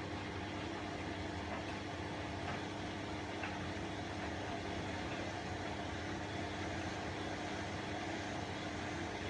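Bosch WAE24162GB03 front-loading washing machine running, with a steady, even motor hum partway through a rinse-and-spin cycle.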